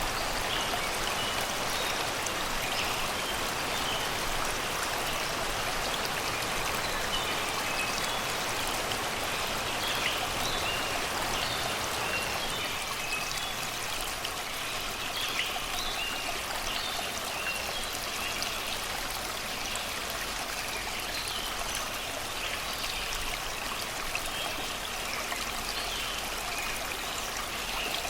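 Shallow river rushing and babbling over rocks and stones, a steady even flow, with songbirds chirping in short, scattered calls above it.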